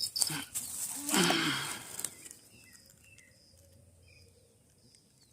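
A short low call about a second in, falling in pitch, after a few clicks; then quiet with faint high bird chirps.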